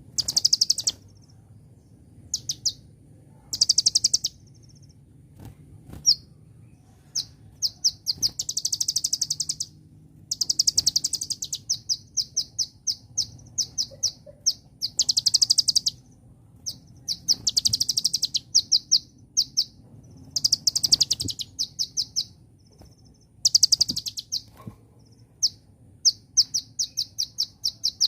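Kolibri ninja (Konin) sunbird singing: high, fast trilling phrases and rapid strings of sharp chirps, repeated again and again with short pauses between.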